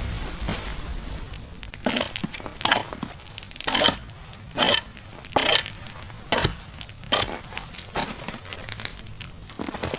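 A series of short crunches, roughly one a second, starting about two seconds in.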